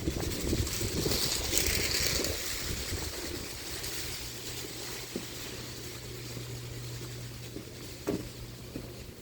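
Strong wind buffeting the microphone in a low rumble, with a rush of hiss about two seconds in. From about three seconds a steady low hum joins, and a single knock comes near the end.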